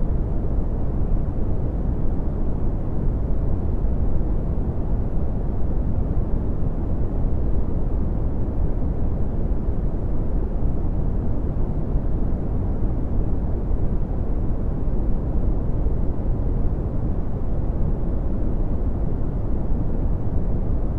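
Steady red (Brownian) noise: an even, deep rumbling hiss, strongest in the bass and fading away toward the treble, with no changes.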